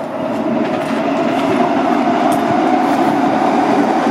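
Freight train noise close by: a steady rumble with a faint hum through it, swelling a little in the first second and then holding level.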